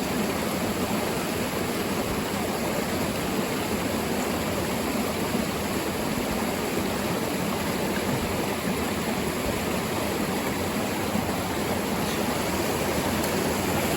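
Mountain stream water rushing, a steady, unbroken noise.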